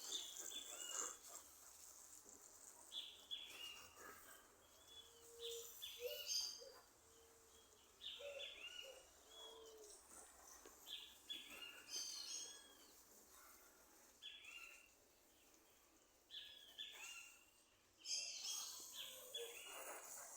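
Birds chirping: short falling chirps in little clusters every second or two, quiet, with a few lower short notes partway through.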